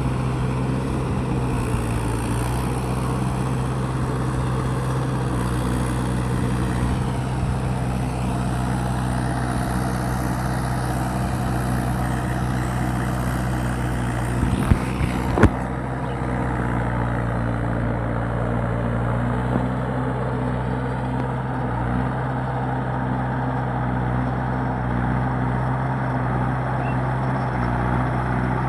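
Mahindra 585 tractor's diesel engine running steadily, typical of a tractor working a field. A couple of sharp knocks come about halfway through.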